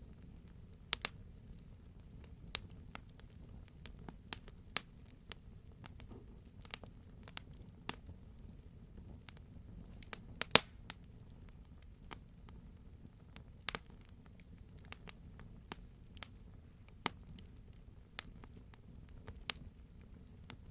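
Wood campfire crackling: irregular sharp pops and snaps from the burning logs over a low steady rumble of the flames, with the loudest pops about halfway through.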